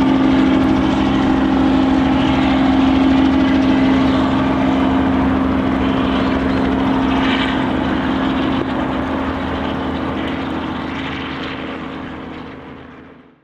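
Steady motor-vehicle engine drone with a constant low hum, fading out near the end.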